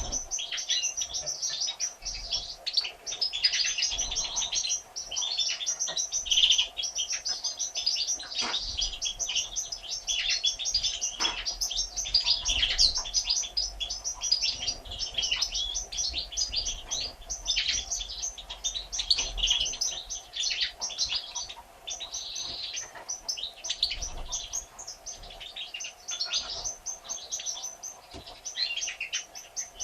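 European goldfinches twittering and chirping in a rapid, unbroken stream of high notes and trills, over a faint steady hum.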